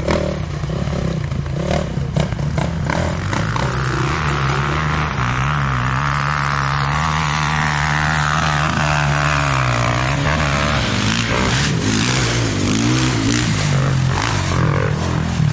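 Motorcycle engine running under way at a steady, loud pitch that wavers slightly up and down, with some rising revs near the end.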